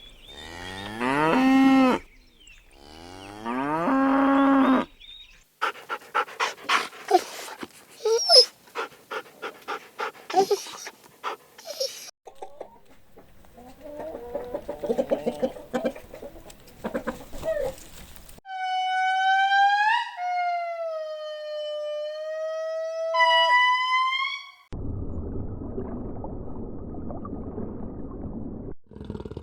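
A series of different animals' calls, one clip after another: two drawn-out pitched calls, then a run of short sharp calls, later a string of high whistling calls that fall in pitch, and a rough noisy stretch near the end.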